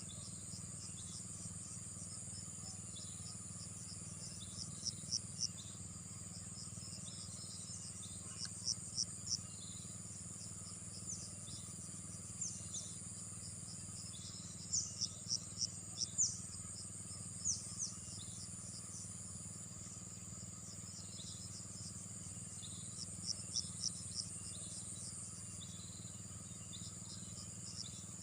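Insects trilling steadily at a high pitch, broken every few seconds by groups of three to five short, sharp chirps, over a faint low steady hum.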